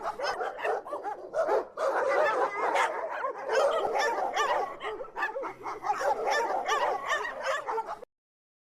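A group of canines yipping, barking and whining together in a busy, overlapping chorus of short high calls, which cuts off suddenly about eight seconds in.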